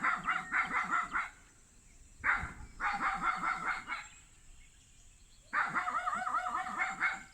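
A dog barking in three quick bursts of rapid barks, with short pauses between them.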